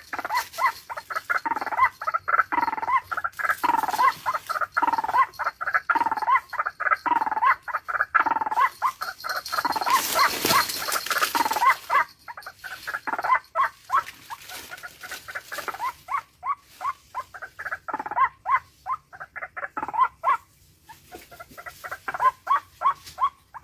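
Small birds chirping in quick, repeated short calls, for a while in a regular run of about one call a second. A burst of rustling noise comes about ten seconds in.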